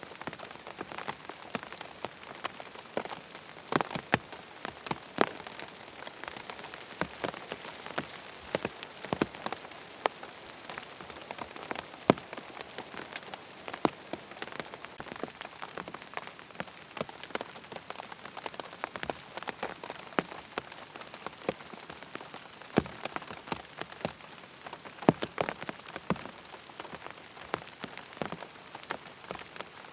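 Steady rain falling on a surface, with many sharp, irregular drops or ticks standing out from the even hiss.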